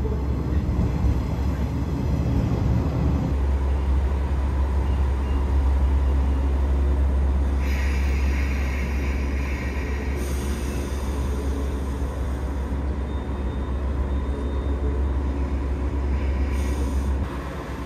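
West Express Ginga, a converted 117 series electric train, running into the platform and slowing to a stop with a steady low rumble. From about eight seconds in, a higher hiss from the brakes comes in for a few seconds.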